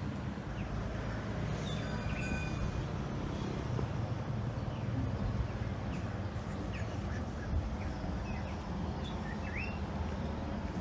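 Steady low rumble of outdoor background noise with a few short bird chirps about two seconds in and a rising bird call near the end.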